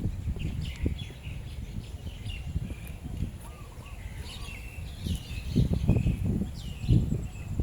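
Birds chirping and calling repeatedly in short, curling notes, over a low rumble that grows heavier about five seconds in.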